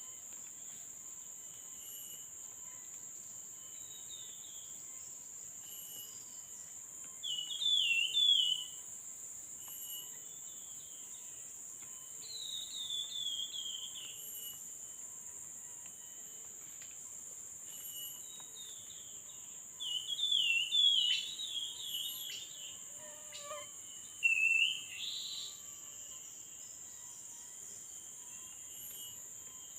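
Tepus (babbler) calls: short runs of three or four quick falling notes, repeated every few seconds, over a steady high insect drone.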